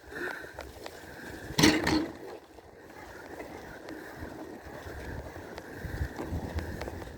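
Bicycle rolling along a path: steady tyre noise with a low, uneven rumble of wind on the microphone. A short loud burst of noise comes about a second and a half in.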